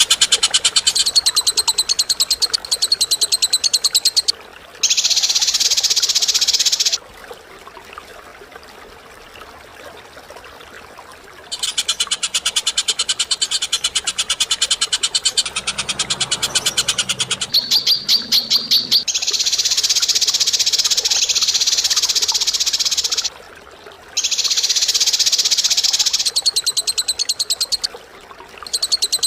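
Cage-bird calls in long bursts: very rapid, harsh rattling trills alternating with stretches of dense hissing chatter, with a quiet gap of several seconds about a quarter of the way in.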